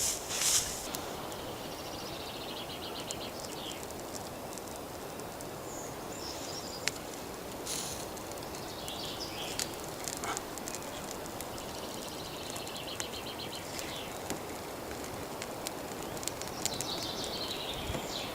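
Songbird singing in forest: a quick high trilled phrase ending in a falling flourish, repeated three times over a steady background hiss, with a few faint sharp clicks in between.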